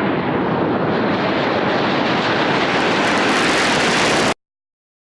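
Jet noise from a B-2 Spirit stealth bomber's turbofan engines passing, a steady rushing roar that grows brighter and hissier as it goes, then cuts off suddenly about four seconds in.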